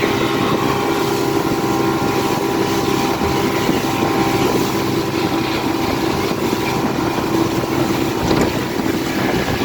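Motorboat engine running steadily at speed, with wind noise on the microphone.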